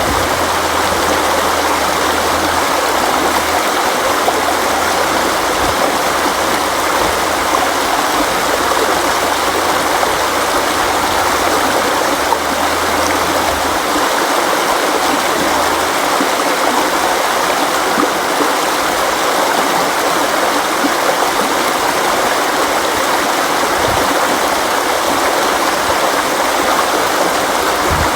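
River water flowing steadily, an even rush with no breaks, with a faint low hum under it during the first half.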